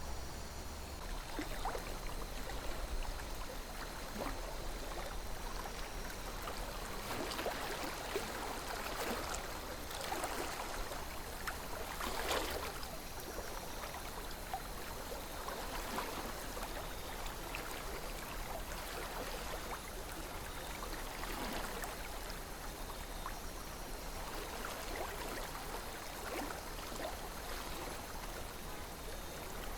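A calm river flowing: a steady wash of water with small gurgles and splashes scattered throughout, a slightly louder splash about twelve seconds in.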